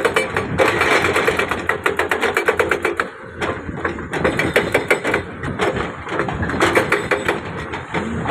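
Heavy construction machine running, its diesel engine with a fast, rapid clattering rhythm; it eases off briefly about three seconds in.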